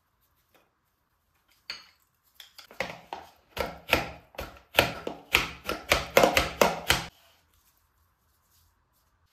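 A quick run of sharp knocks or strikes, about three a second, starting a couple of seconds in and stopping sharply about two seconds before the end.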